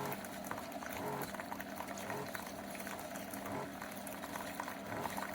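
SIFENE single-serve pod coffee maker brewing: hot water bubbling through the pod and coffee running into a glass mug, with many small pops and crackles over a steady hiss.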